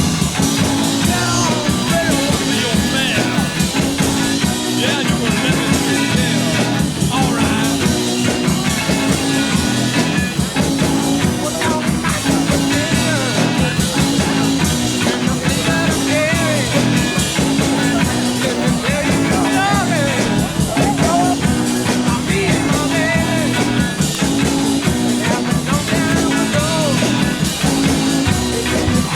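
Background music: a 1960s rock band recording with guitar, bass, drums and keyboards, playing with a steady beat.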